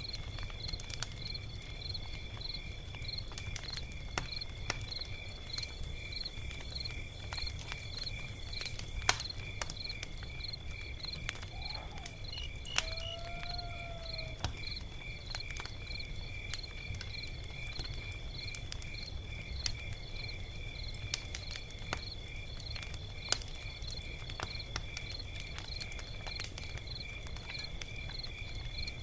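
Log fire crackling, with scattered sharp pops, over a steady chorus of crickets chirping a few times a second. A short rising-and-falling call comes about halfway through.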